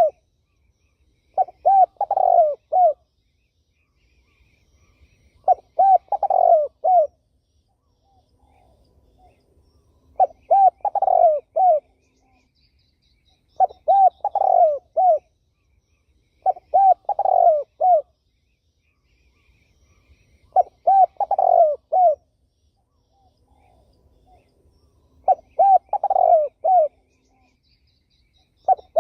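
Spotted dove cooing: a short phrase of several coos, repeated every three to four seconds with pauses between.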